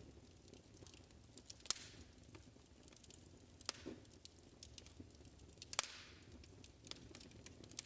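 Wood fire in a fireplace crackling softly, with irregular small ticks and three louder pops over a low rumble.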